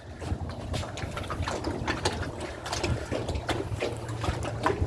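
Wind rumbling on the microphone, with small irregular splashes of water lapping at the lake shore.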